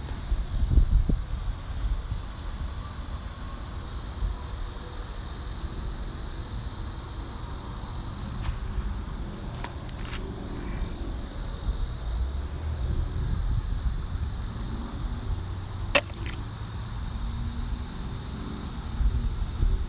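Wind buffeting the microphone, with a steady high hiss of insects behind it and one sharp click about sixteen seconds in.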